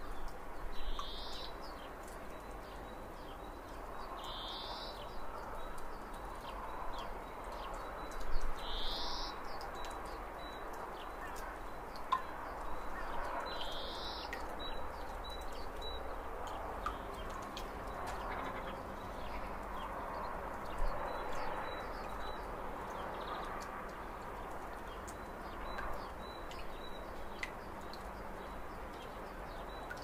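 Wild birds calling over steady outdoor background noise. A short rising high call comes four times, about every four to five seconds, in the first half. Clusters of short, high chips follow later.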